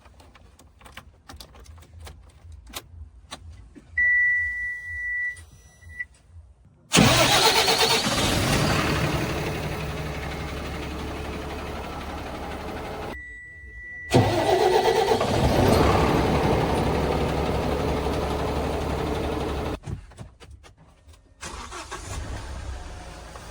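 Heavy vehicle engines running at a loading site. A quiet low rumble with scattered clicks is followed by a steady high beep about four seconds in. From about seven seconds a much louder engine runs, broken off abruptly twice.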